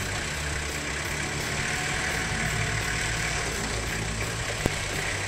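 Tractor engine idling steadily while the tractor takes up the slack in a tow chain. A single sharp click near the end.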